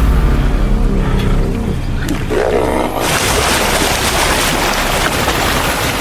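Big cat growling deeply, then a loud rushing, splashing-like noise takes over about halfway through.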